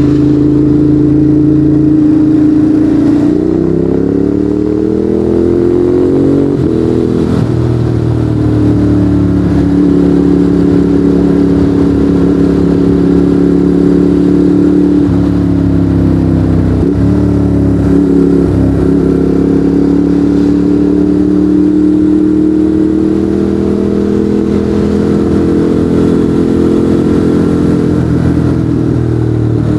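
Ducati Monster 821's L-twin engine through a Termignoni exhaust under way. It revs up for a few seconds, drops as it shifts up, then holds a steady cruise with a couple of brief dips in revs and a slow climb near the end.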